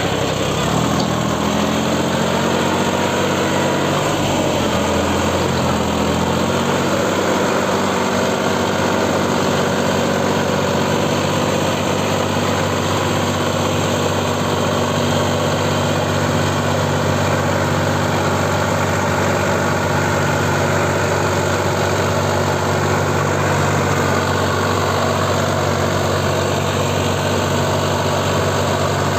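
Diesel tractor engine running. Its pitch wavers and shifts over the first several seconds, then settles to a steady running note.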